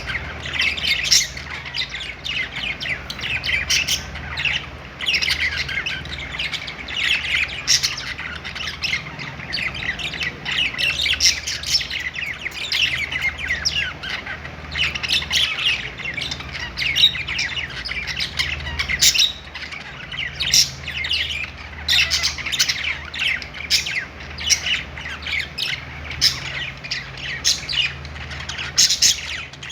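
Several budgerigars (parakeets) chirping and warbling busily, their short calls overlapping without a break.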